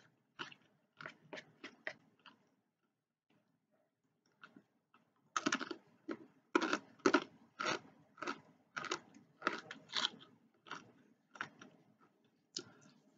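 Close-up eating sounds: crisp chewing and crunching about twice a second, mixed with chopsticks scraping and tapping a plastic takeout bowl. A short lull, then louder and steadier from about five seconds in.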